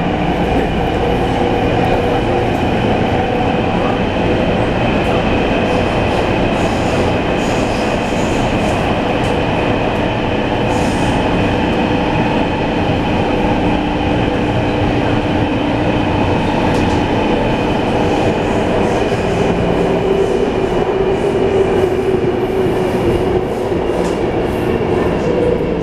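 Train running steadily on the track: an even rumble of wheels and rails with a held mechanical whine and faint scattered clicks.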